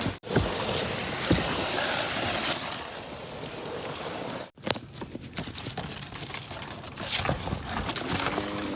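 Water sloshing around a small paddled rowboat, with a few light knocks.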